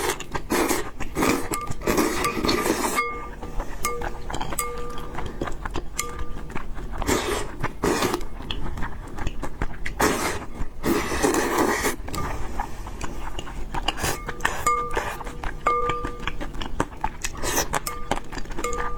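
Close-miked eating sounds: noodles slurped and chewed, with utensils clinking against a bowl, and longer slurps about seven and eleven seconds in. Soft background music with short held notes plays underneath.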